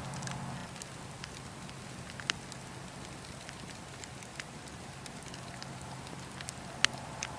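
Wood campfire crackling: irregular small snaps and ticks over a steady low hiss. There are a couple of sharper pops, one a little over two seconds in and a louder one near the end.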